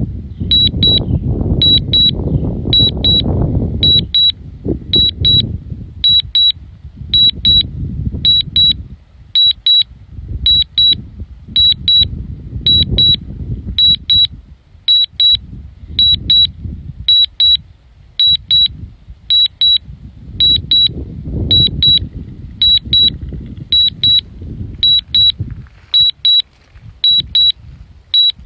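High-pitched warning beeps from the DJI Mavic Mini's remote controller come in quick pairs, repeating about once a second. Under them, strong wind buffets the microphone in gusts.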